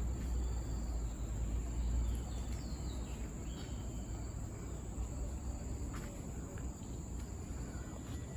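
Outdoor aviary ambience: a steady high-pitched insect drone, with a few faint bird chirps a few seconds in and a low wind rumble on the microphone, stronger at first.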